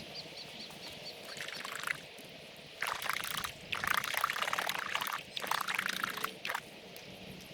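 Water poured and splashed in four uneven bursts while a fishing platform's footboards are rinsed during cleaning. The audio runs at triple speed, so the splashing sounds quicker and higher.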